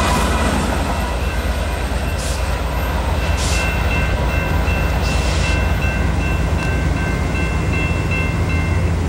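Amtrak Cascades passenger train, its trailing locomotive passing close by at the start, then rumbling away along the double-track main line. Over the rumble the grade-crossing signal bells ring steadily and stop near the end.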